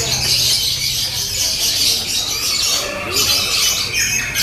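Lovebirds singing: a loud, continuous, high-pitched chattering trill.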